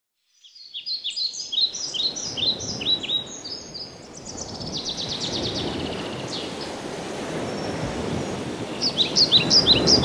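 Birds chirping over a steady background of outdoor noise: runs of quick, downward-sweeping chirps, a fast trill in the middle, and the chirping picks up again near the end.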